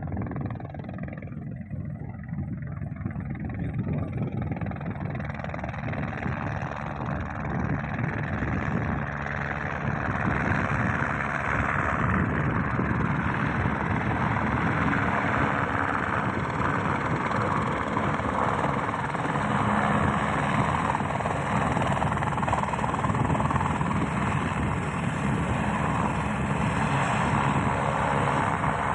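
Helicopter rotor and engine noise, a low rumble with fast rotor pulsing. It builds up over the first ten seconds or so, then runs steadily.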